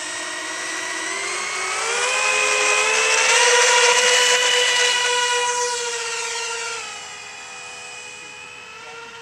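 Radio-controlled model Airbus A380's engines whining as it throttles up, the pitch rising over the first couple of seconds, then holding steady; the sound is loudest about halfway through and fades away near the end.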